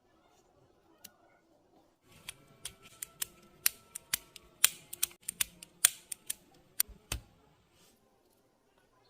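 Small hard parts clicking and tapping: a single click about a second in, then an irregular run of about twenty sharp clicks over some five seconds, stopping about two seconds before the end.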